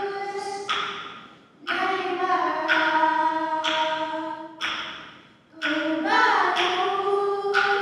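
Young women singing a song together, sustained notes in phrases with short breaks between them, about a second and a half in and again near five and a half seconds.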